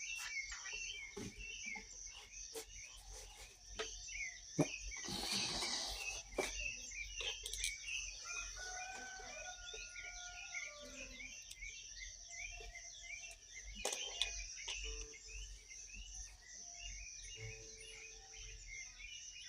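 Outdoor nature sounds: many small birds chirping continuously over a steady high-pitched drone, with a rooster crowing once, drawn out, about nine seconds in, and scattered faint clicks.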